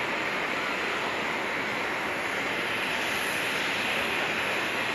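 Jet engines of a Boeing 767 freighter running after landing: a steady rushing jet noise.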